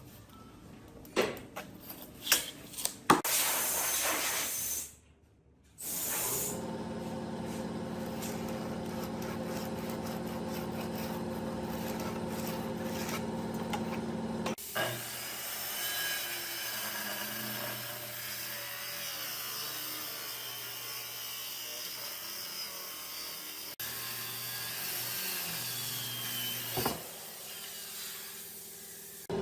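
Woodworking shop sounds in several short cuts. A few sharp knocks on wood come in the first seconds. A power tool's motor then runs steadily for several seconds, followed by tools working against wood with a faint wavering whine.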